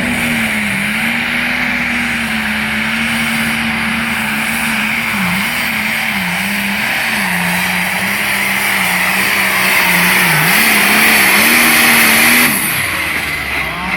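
Engine of a pulling truck or tractor running hard at high revs under load, its pitch dipping and recovering several times. It grows louder toward the end, then drops away abruptly about twelve and a half seconds in.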